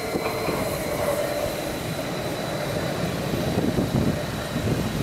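Stadler FLIRT electric multiple unit passing over a level crossing at close range: a steady rumble of wheels on rails, with close-set low clattering knocks throughout.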